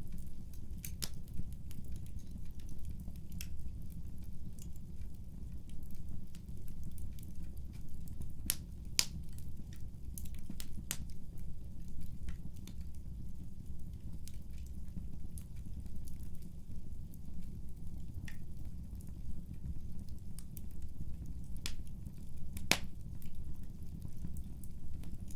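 Wood fire burning in a fireplace: a steady low rumble with frequent sharp crackles and pops, a few louder pops about nine seconds in and again about twenty-two seconds in.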